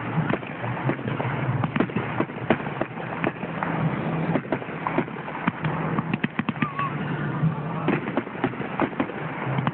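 Fireworks going off in a rapid string of sharp pops and crackles, with a dense cluster of crackling about six seconds in, over a background of crowd voices.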